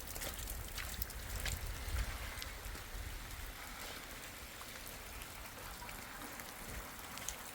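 Steady rain falling, with scattered sharp drip impacts heard over it.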